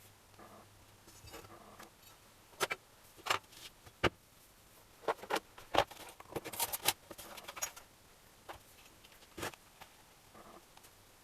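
Small metal engine parts and hand tools clinking and clattering on a workbench during engine assembly: a few separate sharp clicks, then a busy run of clatter, then a last click.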